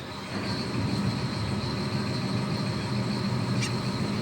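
Tour catamaran's engine running, a low rumble that swells louder about a third of a second in and holds steady, with a thin steady whine above it.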